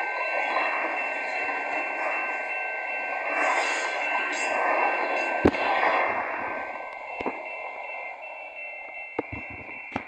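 Freight train passing, a steady rushing noise with a thin high ringing tone over it, fading away over the last few seconds, with a few sharp clicks.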